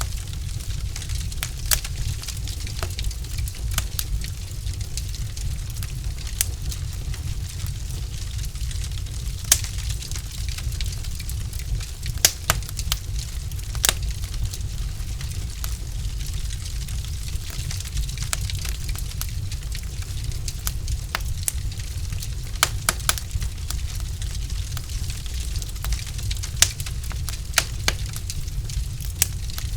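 Wood fire crackling in a fireplace: irregular sharp pops and snaps from the burning logs, some louder than others, over a steady low rumble.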